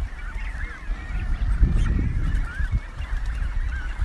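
A nesting colony of birds, which the uploader calls snake birds, with many calling at once in a chorus of short, wavering calls. A low rumble swells about two seconds in.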